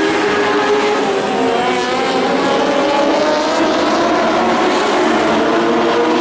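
A pack of dwarf race cars with motorcycle engines running hard on the track, several engine notes overlapping and rising and falling in pitch as the cars go around.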